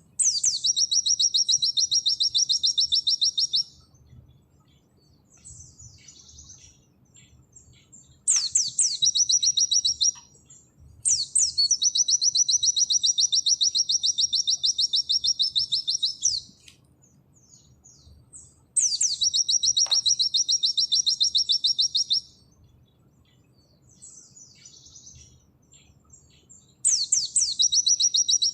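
White-eye (pleci) singing in long bursts of very fast, evenly repeated high notes, the 'nembak' style of song. There are five bursts, lasting from about a second and a half to over five seconds, with softer twittering chirps in the gaps.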